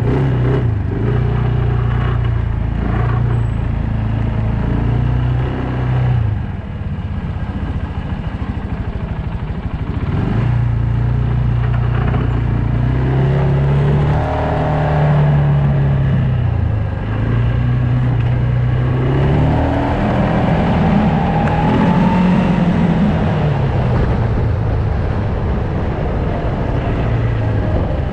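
Loncin X-Wolf 300 quad bike's engine running under way, its pitch rising and falling as the throttle opens and eases off, with a longer climb in revs about twenty seconds in.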